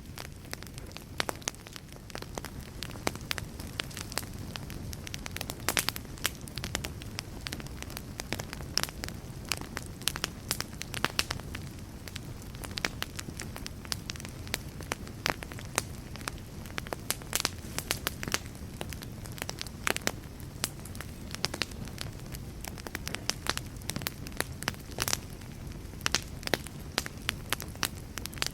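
Wood fire burning in a fireplace, crackling with frequent sharp, irregular pops over a low, steady rumble of the flames.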